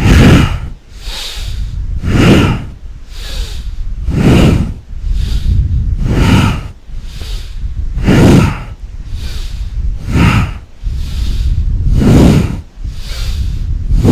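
A person breathing hard and audibly in a fast, even rhythm, close to the microphone: a strong, forceful breath about every two seconds, with a quieter breath between each.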